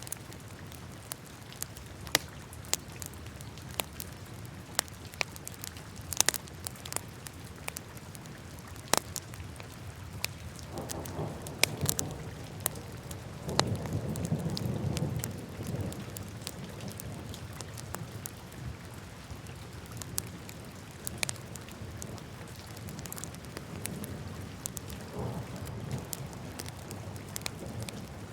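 Wood fire crackling in a fireplace: irregular sharp pops and snaps over a steady low rush of flame. The low rush swells louder for a few seconds in the middle.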